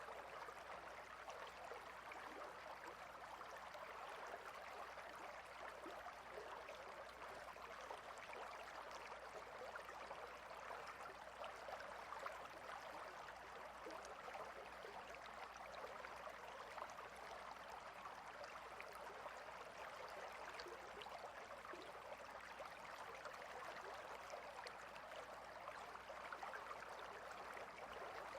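A clear stream flowing between rocks: a faint, steady rushing with small splashes and trickles.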